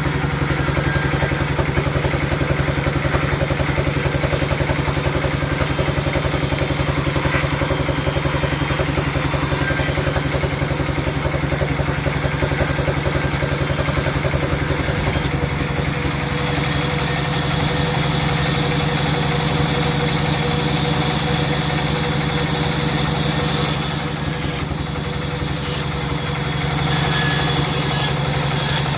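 Sawmill machinery running with a steady, engine-like drone and a fast, even pulse. A hissing high part of the sound thins out about halfway through.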